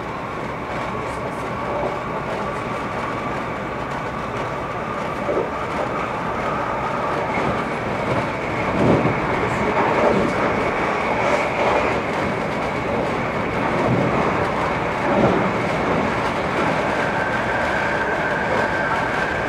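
Electric commuter train running along the track, heard from inside the carriage: a steady rolling rumble with a faint whine, and a few louder wheel thuds over the rails between about eight and fifteen seconds in. A higher steady whine comes in near the end.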